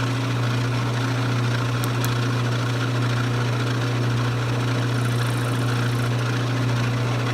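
Lathe motor running at a steady speed, spinning a wooden dowel, with a strong, constant low hum.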